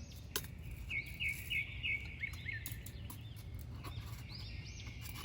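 Small birds chirping and calling in the background, including a quick run of about five short notes between one and two seconds in, over a low steady rumble. A sharp click comes just under half a second in.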